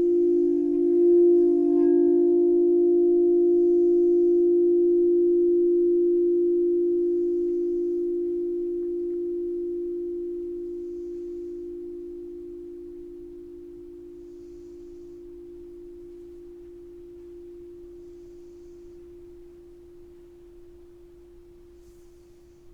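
Singing bowl ringing one deep, wobbling note, its higher overtones dying away in the first couple of seconds; the note holds for a few seconds, then slowly fades until it is faint near the end.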